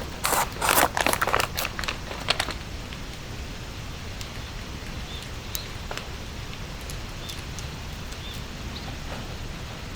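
A burst of crunching, rustling clicks for about the first two seconds, then a steady hiss of light rain with a few faint, short, high chirps.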